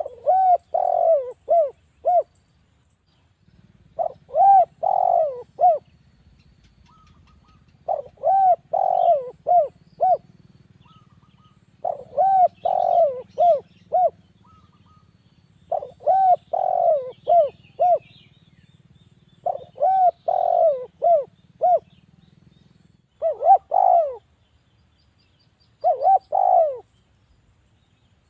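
Spotted dove (Javan derkuku) cooing. Each phrase is a few arched coos ending in quick short notes, and the phrase repeats about every three to four seconds.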